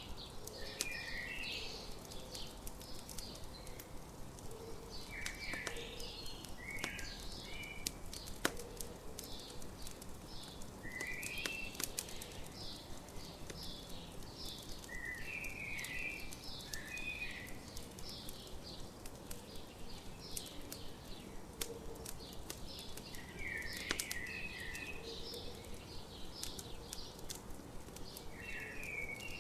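Campfire crackling with scattered sharp pops, under songbirds chirping in short bursts every few seconds.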